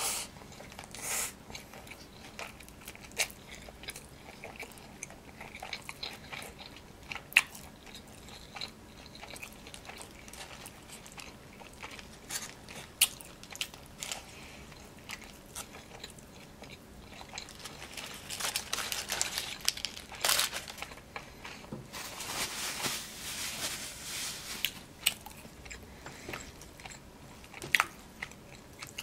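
Chewing and biting into a cheeseburger: wet mouth sounds with scattered sharp clicks, busier and louder for several seconds about two-thirds of the way through.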